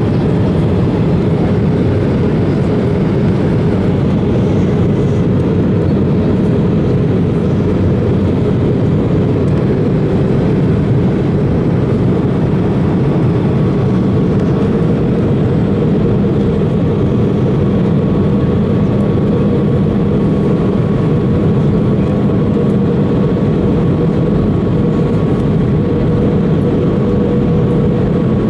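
Steady cabin noise of an Airbus A320 on approach: a constant rush of airflow over low engine hum. A faint high steady tone joins it about halfway through.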